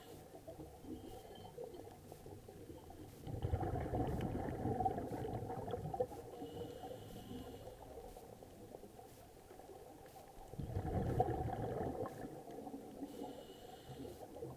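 Water churning and sloshing, swelling twice into louder gurgling surges, about three seconds in and again about eleven seconds in.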